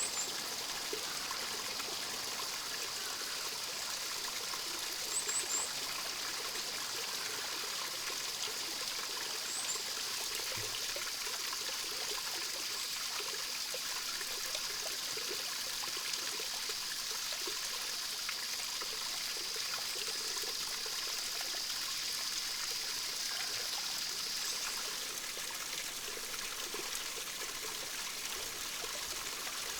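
Mountain stream flowing steadily, with a few brief high bird chirps: one right at the start, a couple about five seconds in and another near ten seconds in.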